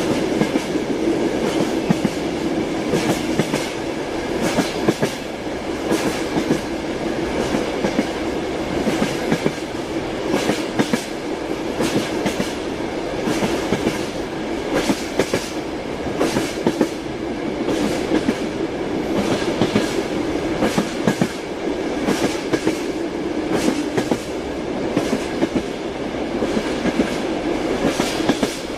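Train running on the rails, its wheels clattering over rail joints in repeated sharp clicks over a continuous steady rumble.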